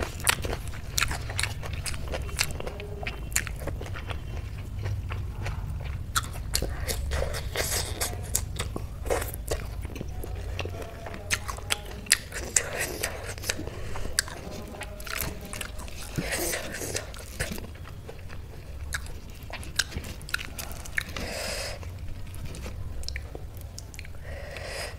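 Close-miked chewing of a mouthful of food, including raw spring onion, with many small wet clicks of the mouth.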